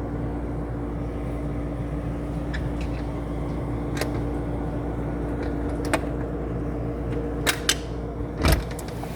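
A steady low motor hum with a few sharp clicks, two close together and a louder knock near the end.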